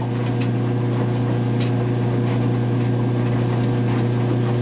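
Washing machine running its spin cycle: a steady low hum with a few faint clicks.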